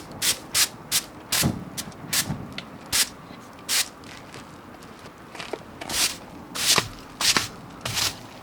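A series of about a dozen short, dry crunching and snapping noises at irregular intervals, with a lull in the middle.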